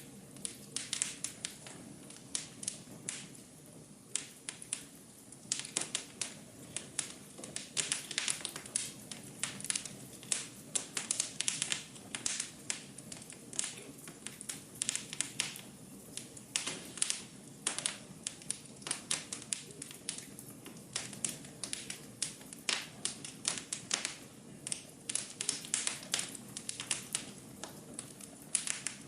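Wood fire burning in a fireplace, crackling and popping in sharp, irregular snaps over a soft steady rush of flame.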